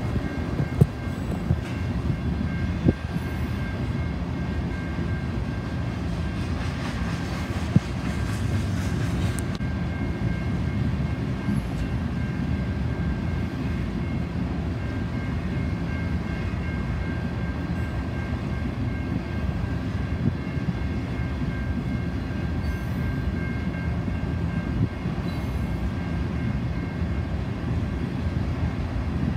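Railway tank cars of a freight train rolling past at a level crossing: a steady low rumble of wheels on rail, with a few sharp clacks in the first three seconds. A crossing bell rings steadily above it, a high tone.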